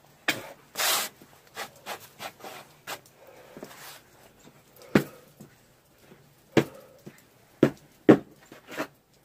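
Footsteps crunching through deep fresh snow: irregular packing crunches, with heavier steps about a second apart in the second half.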